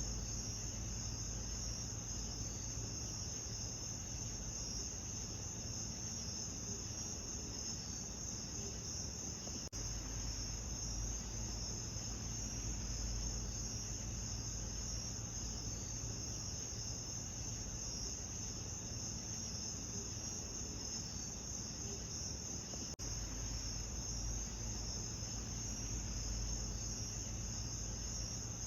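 Steady night chorus of crickets, a dense high-pitched trilling, over a low steady rumble. The sound drops out for an instant twice, about ten and twenty-three seconds in.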